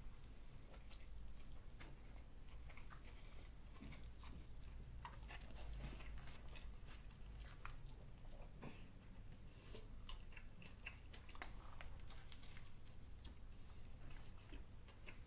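A person biting into and chewing a Grand Big Mac burger: quiet, irregular mouth clicks and soft crunches, with some handling of the burger and its cardboard box.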